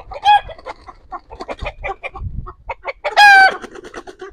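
Chicken squawking in alarm: a short squawk at once, a run of quick clucks, then one long, loud squawk about three seconds in, the loudest sound.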